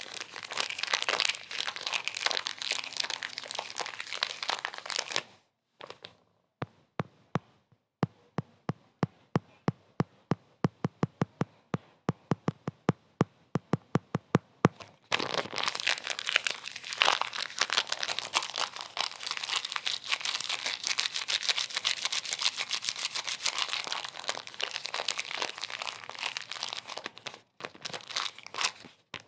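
Dense crinkling and crackling, as of something being crumpled. About a fifth of the way in it breaks off into a run of separate sharp clicks, two or three a second. The dense crinkling resumes about halfway through.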